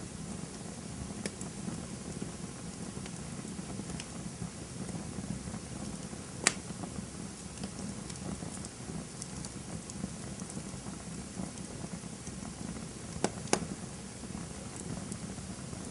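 Campfire burning with a steady low rush and scattered sharp crackles and pops. The loudest pop comes about six and a half seconds in, and a close pair comes near the end.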